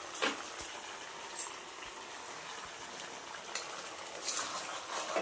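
Chicken and masala sizzling in hot oil in a kadhai, a steady hiss broken by a few light clicks and scrapes.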